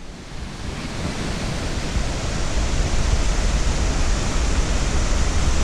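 Waterfall cascade rushing: a steady roar of falling water with a deep rumble underneath, growing louder over the first two seconds and then holding steady.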